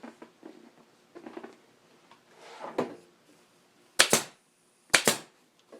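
Staple gun firing twice, about a second apart, driving staples through a motorcycle seat cover into the plastic seat pan, after quiet rustling of the vinyl cover being pulled tight.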